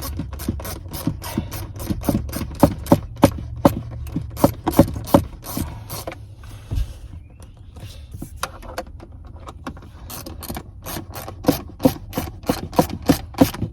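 Hand ratchet clicking as a seatbelt anchor bolt is turned in, about three clicks a second. There is a pause about halfway through, then a second run of clicks near the end.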